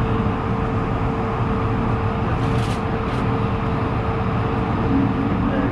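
Steady cabin noise of an Airbus A220-100 airliner: its Pratt & Whitney geared turbofan engines and airflow make an even rumble with a steady hum, and two light clicks come about halfway through.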